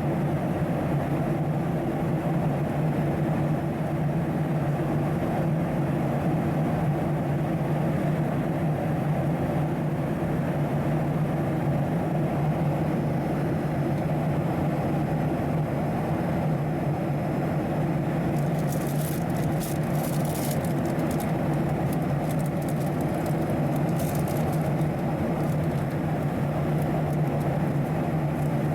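Steady drone of a Boeing 737-700 airliner in flight, heard from inside the passenger cabin: engine hum and airflow noise holding at a constant level. A few faint crackles come about two-thirds of the way through.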